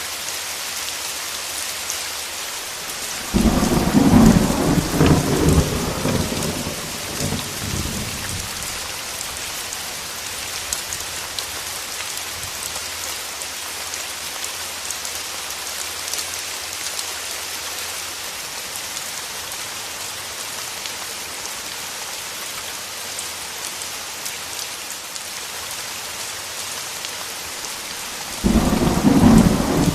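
Steady heavy rain with thunder. A sudden rumble of thunder breaks about three seconds in and dies away over about five seconds, and another begins just before the end.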